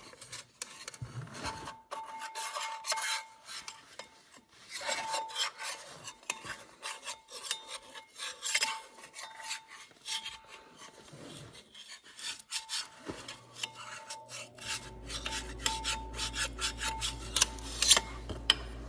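Irregular scraping, rubbing and light clicks of hands and tools working on the tractor's drivetrain in a cramped space. A low steady hum comes in about 15 seconds in.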